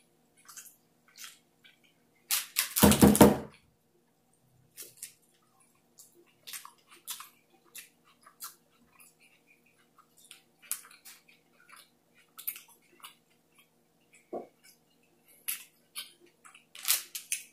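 Close-up chewing and wet lip smacks from a mouthful of soft burrito filled with chicken curry, butter chicken and basmati rice. Short smacks come irregularly throughout. About two and a half seconds in there is one louder, longer sound.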